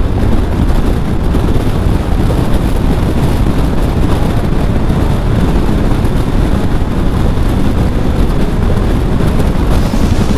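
Motorcycle at road speed: a steady, loud rush of wind on the microphone over the engine and tyre noise of a Triumph Tiger 1200 GT Pro.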